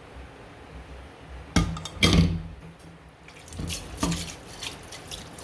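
Kitchen work sounds: a few knocks and clinks of pots and dishes, with water dripping.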